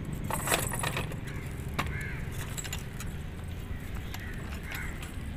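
A bird calling twice in the background, about two seconds in and near the end, over a steady low rumble, with two sharp clicks about half a second and about two seconds in.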